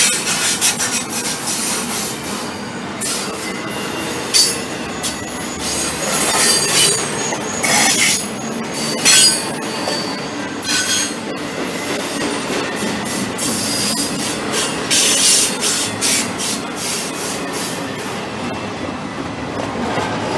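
Double-stack container freight train rolling past: a steady rumble and clatter of wagons on the rails, broken by frequent short, high-pitched wheel screeches.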